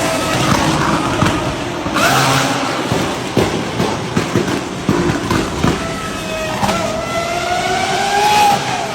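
High-performance sports car engine under hard acceleration, with sharp crackles throughout. Its pitch climbs steadily over the last couple of seconds, then drops near the end.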